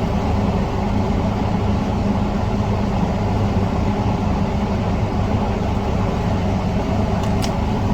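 Steady low mechanical hum with a constant drone and a light noise over it, with one faint click about seven seconds in.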